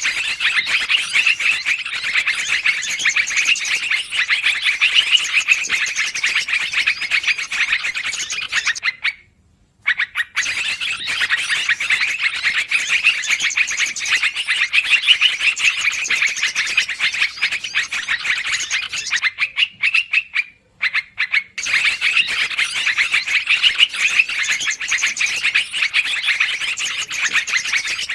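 Recorded lure calls of yellow-vented bulbuls (trucukan): a dense, noisy, rapid chattering of bird calls, played as a loop that breaks off briefly twice and starts over.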